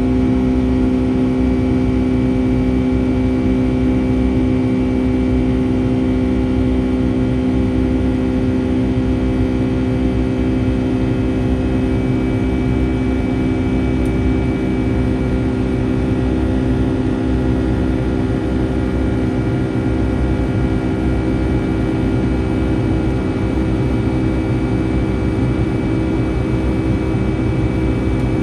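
Boeing 757-300's jet engines heard from inside the cabin, running steadily as a constant hum of several tones over a low rumble.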